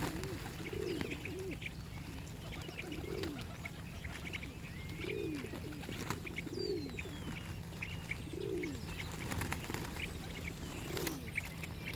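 Pigeons cooing: low, rounded coos repeating every second or two, with faint higher chirps from other birds.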